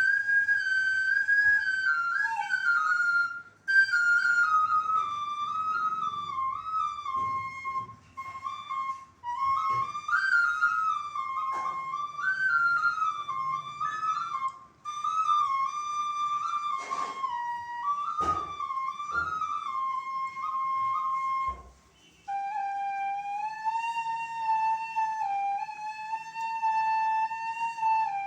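Bansuri (Indian bamboo flute) playing a solo melody, gliding and bending between notes, with a few short pauses. After the last pause, about three-quarters of the way through, the melody carries on lower.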